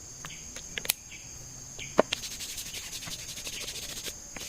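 Insect chorus with a steady high-pitched drone that becomes a denser, rapidly pulsing trill about halfway through. A sharp click about two seconds in, with a few fainter clicks earlier.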